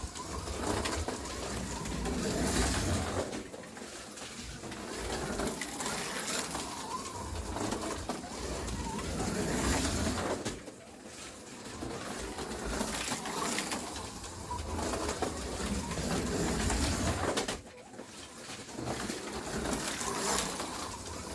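NSR Corvette slot car with a sidewinder motor lapping the track at full power, its motor and tyres swelling and fading as it comes round. The sound drops away briefly twice, about ten and eighteen seconds in.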